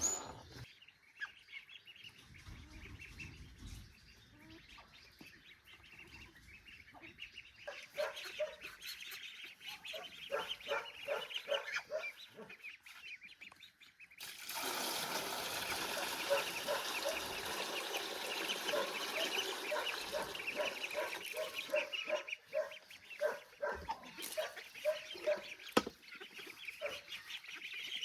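Domestic poultry calling: many short calls repeated in quick succession, thickening about eight seconds in. A steady hiss joins them from about fourteen seconds in and stops abruptly about eight seconds later.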